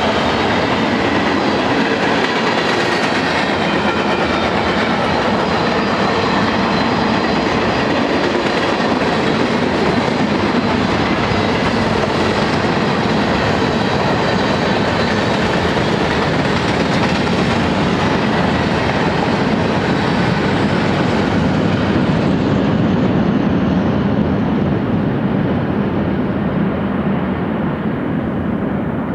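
Freight train of tank cars and covered hopper cars rolling past close by, a steady loud rolling rumble of wheels on rail, with a faint high whine over it in the first several seconds. The sound dulls over the last several seconds as the end of the train moves away.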